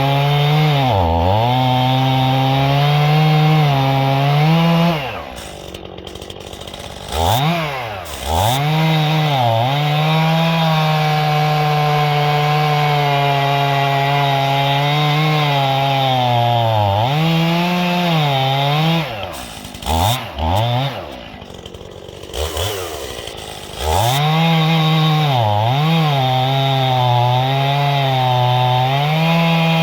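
Stihl two-stroke chainsaw cutting through a dead ash log, running at full throttle with its pitch dipping briefly several times as the chain bites. Twice, around five seconds in and again around twenty seconds in, it drops to idle for a few seconds with short throttle blips, then revs back up.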